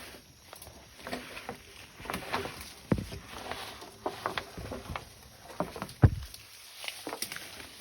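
Irregular light knocks and clatter, with two heavier thuds about three and six seconds in.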